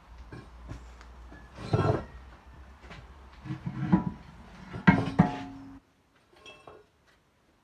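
Several knocks and clanks of hard objects over a low steady hum, the loudest about five seconds in with a brief ringing note; the sound then cuts out abruptly, leaving only a few faint clicks.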